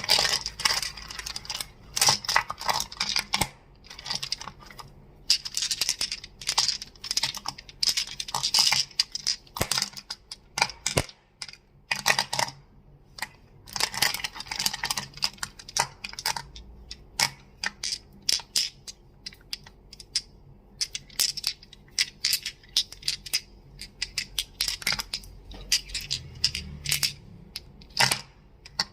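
Crystals being tapped and clacked, making quick runs of sharp clicks with short pauses between them.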